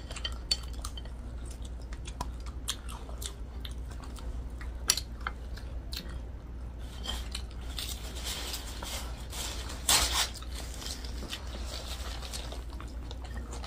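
Close-miked eating: chewing and biting with crunches of fried chicken wings, and scattered sharp clicks of chopsticks and fingers against plates.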